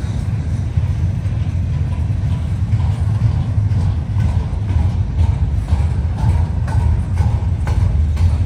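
Freight train rolling past: a steady low rumble, with the clatter of wheels over the rail joints becoming clearer after about three seconds.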